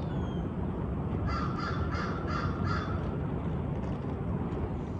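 A bird calling: a run of about six short calls, roughly three a second, starting about a second in, over steady low background noise.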